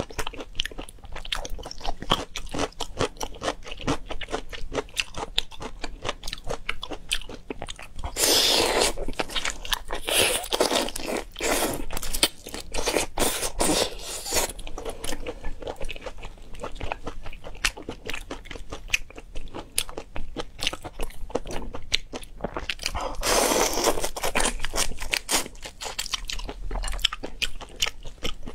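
Close-up eating sounds of seafood being bitten and chewed: a dense run of sharp crunches and wet chewing, with several louder stretches of crunching.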